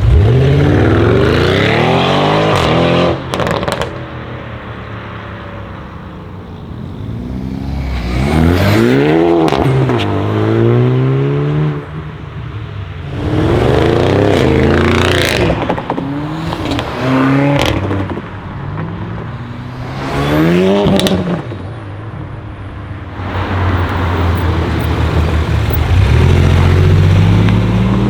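Hyundai i30 N's turbocharged four-cylinder engine revving hard over and over, the revs climbing steeply and then falling away. Short sharp pops come from the exhaust at several of the lift-offs.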